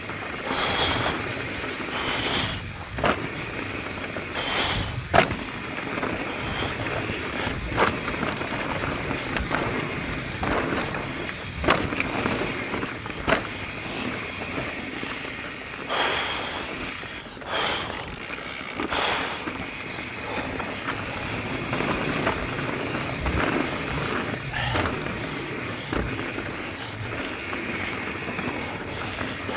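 Mountain bike riding down a rough dirt trail: steady tyre and wind noise, broken by frequent sharp knocks and rattles as the bike hits bumps.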